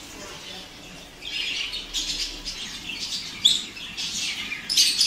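Small birds chirping in quick, repeated bursts, getting busier about a second in.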